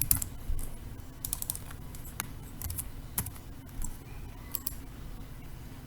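Typing on a computer keyboard: scattered key clicks in short runs with pauses between.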